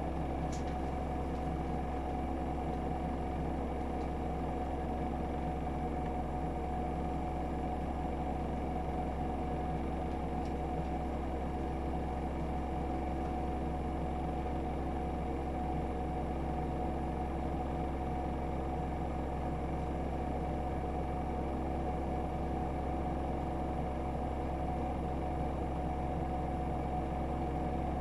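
AEG Öko-Lavamat 76910 front-loading washing machine with an inverter-driven three-phase motor, running steadily at constant speed: a steady high whine over a low hum, most likely the drum in a sustained spin. Two faint ticks sound about half a second and ten seconds in.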